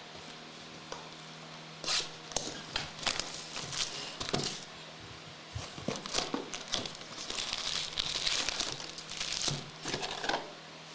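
Plastic card-pack wrapping being torn open and crumpled, in irregular crinkling bursts that start about two seconds in.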